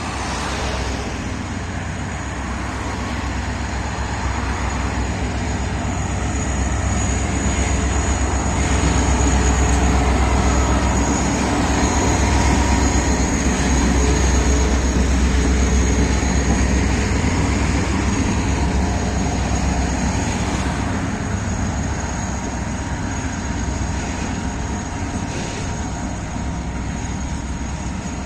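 Two DE 33000 diesel-electric locomotives running coupled together. Their engines make a steady deep drone that grows louder through the middle and eases off again, with a constant high-pitched whine above it.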